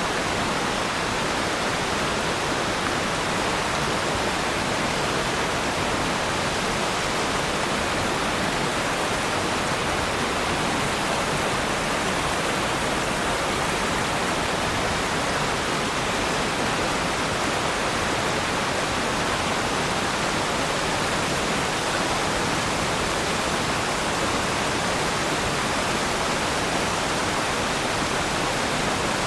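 Waterfall, water falling and splashing in a steady, even rush with no breaks or distinct splashes.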